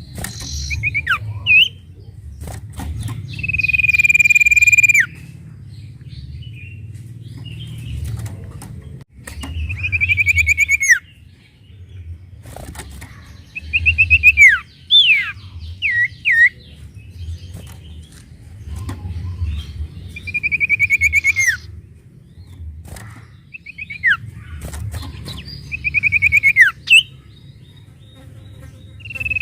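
A sirtu songbird singing in repeated phrases every five or six seconds. Each phrase is a fast, buzzy trill held near one pitch, with short sharp downward whistles around it, over a steady low rumble.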